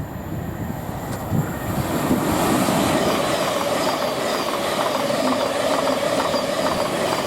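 Thameslink Class 700 electric multiple unit passing through the station: a rush of wheels on the rails that builds about two seconds in, then holds, with a steady whining tone running through it.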